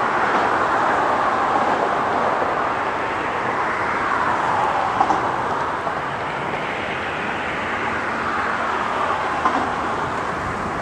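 Freight train rolling along the rails: a steady rushing wheel noise that swells and eases, with a couple of light clicks.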